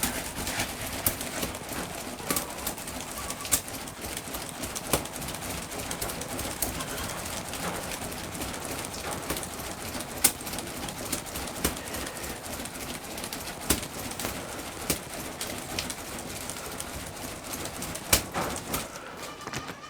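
Irregular sharp crackles and pops over a steady hiss: a fire burning under a covered pot of water being brought to the boil.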